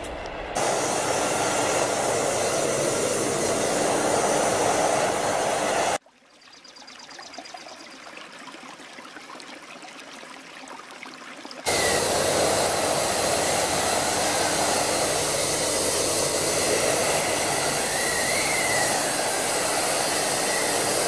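Loud, steady machine noise with a strong hiss, heard in two long stretches that start and stop abruptly, with a much quieter stretch between them.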